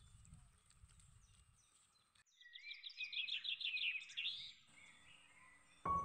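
A songbird singing a quick run of high, rapidly repeated chirps for about two seconds near the middle, over faint outdoor background. Background music comes back in just before the end.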